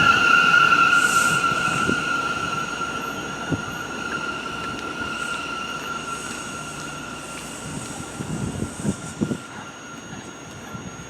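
Subway train wheels squealing on the rails, a steady high-pitched screech that is loudest at the start and fades away, with a few wheel knocks and rumbling near the end.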